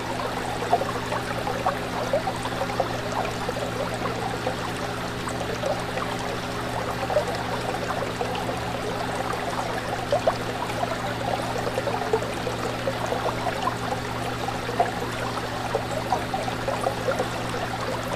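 Fish tank water bubbling and trickling steadily, with many small bubble pops and a constant low hum underneath.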